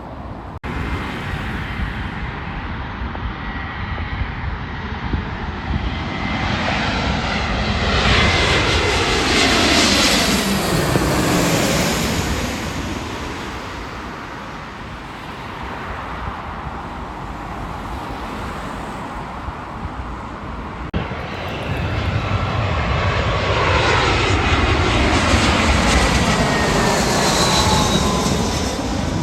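Two jet airliners passing overhead one after the other. Each swells to a loud roar with a falling whine as it goes by: the first is loudest about ten seconds in, the second near the end.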